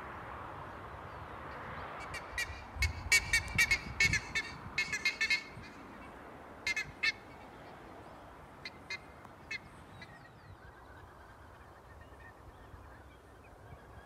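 Birds calling: a quick run of short, sharp calls about two seconds in, thinning to a few scattered calls later, over wind noise on the microphone.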